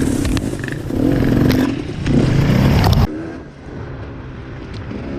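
Dirt bike engine revving up and easing off twice, then a sudden change about three seconds in to a quieter, more distant engine running.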